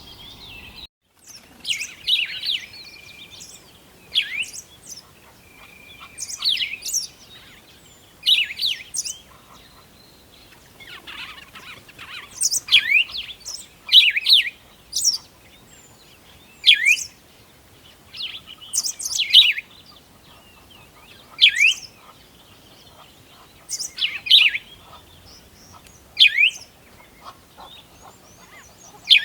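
Birds chirping: a short, high call with a quick falling sweep, repeated about every two seconds, with other faint chirps between.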